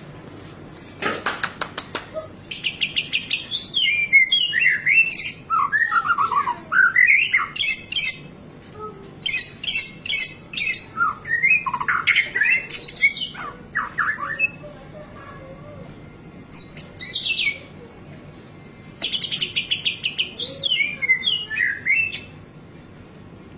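White-rumped shama (murai batu) singing loudly in bursts of varied phrases: rapid trills, notes sweeping up and down, and a song full of mimicked fill-in phrases, with short pauses between bursts.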